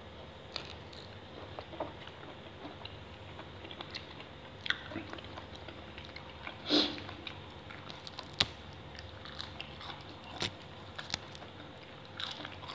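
Close-up chewing and biting of raw shrimp cured in fish sauce and fresh leafy greens: scattered short wet mouth clicks and crunches, with one louder, longer sound about seven seconds in.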